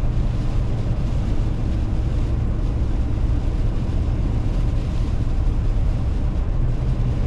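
Car driving at about 45 mph, heard from inside the cabin: a steady low rumble of tyres and engine on the road.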